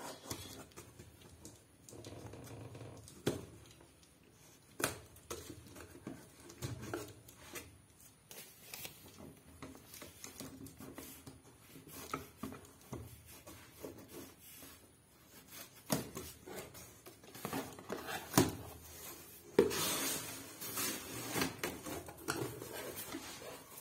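A parcel being opened by hand: scattered clicks, knocks and short rustling scrapes of the packaging, with a longer, denser stretch of rustling about twenty seconds in.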